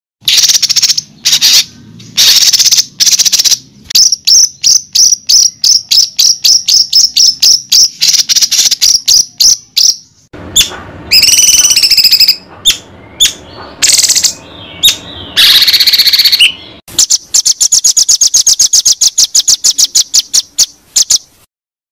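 Songbird tutor recording for white-rumped shamas: sharp high chirps repeated in quick runs, broken by a few longer sweeping whistled phrases partway through, then a fast, even rattle of chirps that stops abruptly near the end.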